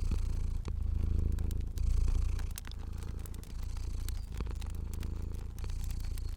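A cat purring close up, a steady low rumble that swells and eases with its breaths. Sharp pops of a crackling fire sound scattered over it.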